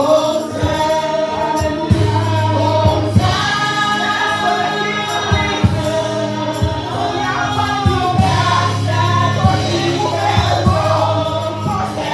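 Church congregation singing a gospel praise song, backed by a sustained low bass and a steady drum beat.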